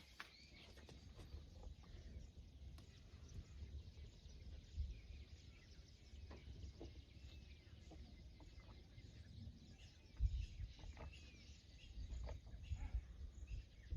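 Faint outdoor background: a low rumble with scattered short bird chirps and a few light clicks, the rumble swelling briefly about ten seconds in.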